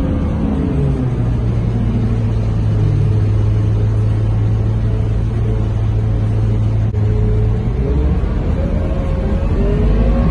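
Scania K230UB city bus's nine-litre five-cylinder diesel heard from on board: the engine note falls, holds a steady low hum for several seconds, then rises as the bus accelerates away, with a gear change near the end.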